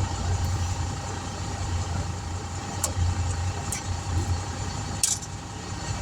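A vehicle engine idling with a steady low hum and a steady mid-pitched tone, broken by a few short clicks and a brief hiss about five seconds in.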